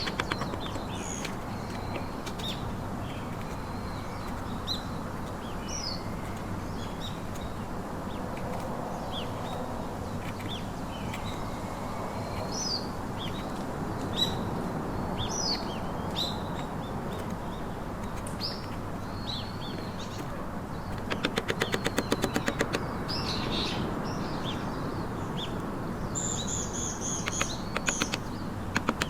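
Small birds chirping on and off over a steady background hiss, with a quick run of sharp taps about two-thirds of the way through and a few more taps near the end.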